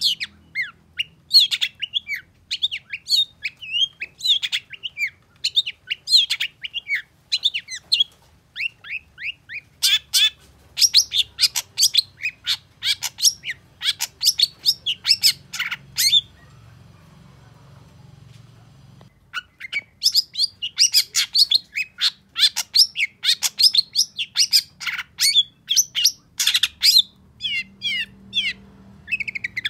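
Long-tailed shrike (cendet) singing a fast, varied chattering song of short, sharp notes. It pauses for about three seconds just past the middle, then starts again.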